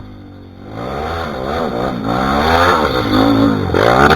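Dirt bike engine revving hard, its pitch rising and falling several times as the throttle is worked, growing louder from about a second in.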